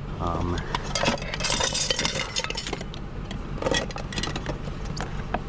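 Glass and metal junk clinking and rattling as it is handled, with a dense run of clinks about a second and a half in, over a steady low engine hum.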